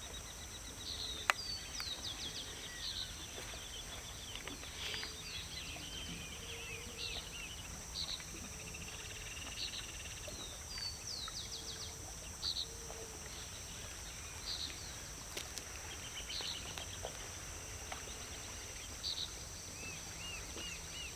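Several small birds chirping and trilling over a steady, high insect drone, with one sharp click about a second in.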